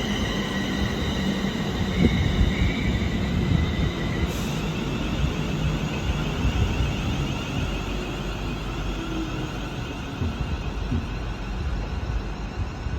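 A train moving through the station: a steady low rumble with high whining tones, which change about four seconds in.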